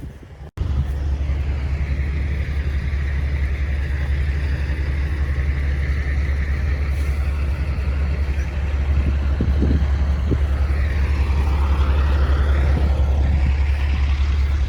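Truck engine running, a loud steady low rumble, with a rising and falling higher noise over it near the end.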